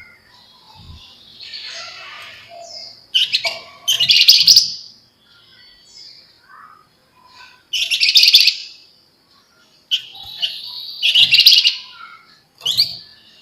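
Javan fulvetta singing in loud bursts of rapid, dense chattering notes, each about a second long, with softer calls between them.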